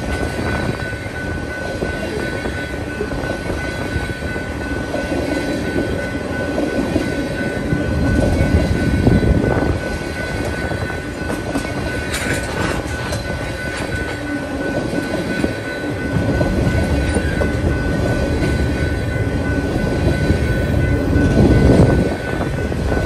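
Crude oil tank cars of a freight train rolling past close by: steel wheels running on the rails, with a steady high-pitched tone throughout and the noise swelling twice as cars go by.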